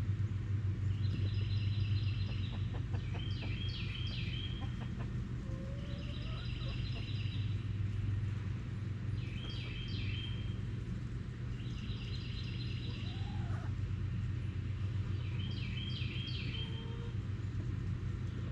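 Chickens making soft low clucks and murmurs, while a small wild bird repeats a short, high, trilled phrase about every three seconds, alternating between two versions of it. A steady low hum runs underneath.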